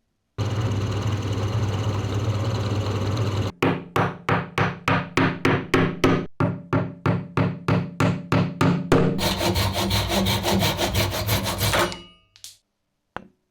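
Tool work on wood: a steady rasping stretch, then rhythmic back-and-forth strokes about two to three a second, like hand sawing or sanding, then another steady stretch that stops shortly before the end.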